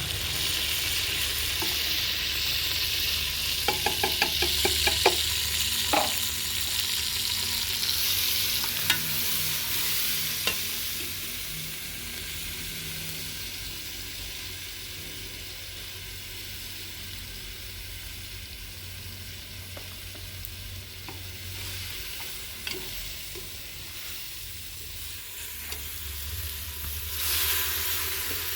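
Food frying and sizzling in hot oil in a cooking pot while a spoon stirs it, with a quick run of metal clicks about four seconds in and a few single knocks of the spoon on the pot. The sizzle dies down in the middle and swells again near the end.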